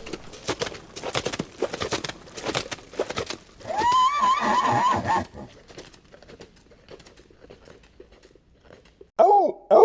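Horse hooves clopping in a quick run of knocks, then a horse whinnying in one wavering call of about a second and a half. A lower wavering animal call starts just before the end.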